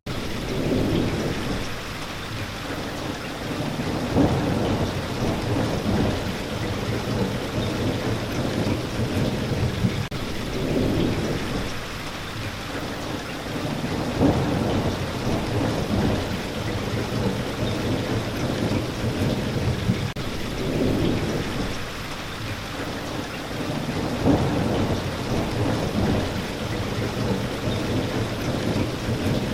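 Steady heavy rain hiss with low rolling thunder rumbling in swells every few seconds. It comes in suddenly at full level.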